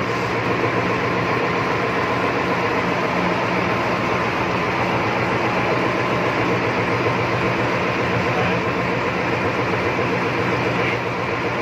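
Steady drone of ship's machinery, with several constant hum tones and no change throughout.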